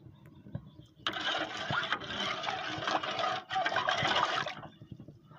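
Hot water being poured for brewing coffee: a steady rush of liquid that starts about a second in, dips briefly, and stops abruptly well before the end.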